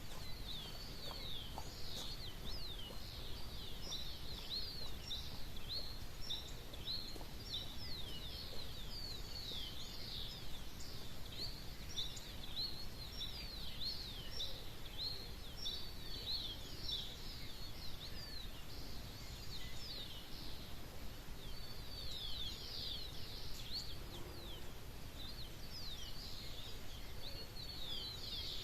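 Small songbirds chirping and twittering at dawn, a dense stream of quick, short falling notes from several birds at once. A steady low rumble runs underneath.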